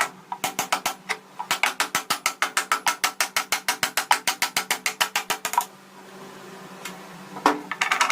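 A hand-operated ratcheting mechanism clicking rapidly and evenly, about nine clicks a second, for some five seconds. It stops, gives a single click, then starts clicking again at the end.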